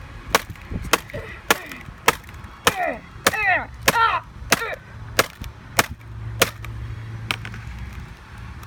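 Repeated hard blows on a MacBook's keyboard and aluminium case, a bit under two strikes a second, about a dozen in all, stopping near the end, as the keys are beaten loose.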